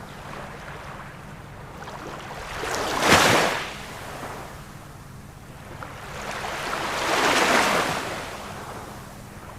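Ocean waves breaking on a shore over a steady wash of surf. One wave crashes sharply about three seconds in, and a broader, slower surge builds and peaks near the end.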